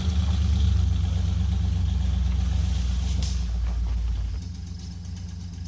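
Jeep J20 pickup's engine running steadily, then easing down to a quieter idle about four seconds in.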